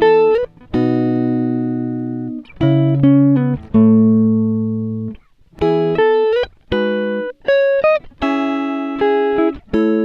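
Background instrumental music: plucked guitar-like notes and chords, each ringing out and fading before the next.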